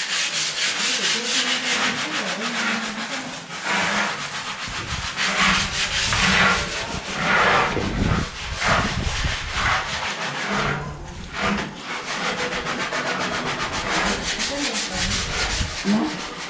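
Continuous rough rubbing and scraping, like sanding on a hard surface, in quick repeated strokes. It drops out briefly about eleven seconds in, then resumes.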